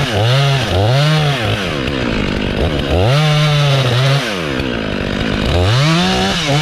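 Two-stroke Stihl chainsaw revved up and down: three quick revs, a longer held rev about three seconds in, then another rising rev near the end.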